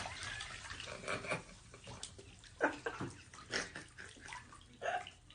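Faint water splashing and sloshing, with a few short knocks and splashes scattered through.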